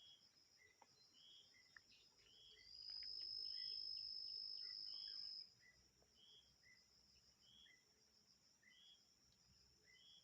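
Insects trilling in a steady high-pitched chorus, with a two-note chirp repeating about every 0.7 s. A louder, steady high whine of a single insect rises in about two and a half seconds in and stops about three seconds later.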